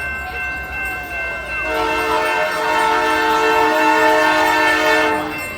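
Locomotive air horn sounding one long blast of about three and a half seconds, starting about two seconds in.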